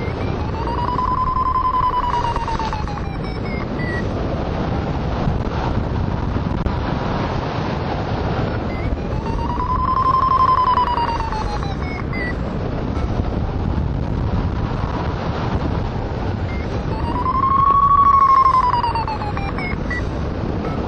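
Hang-glider variometer beeping its climb tone three times, each run of quick beeps rising then falling in pitch over two or three seconds as the glider passes through lift, over steady wind noise on the microphone.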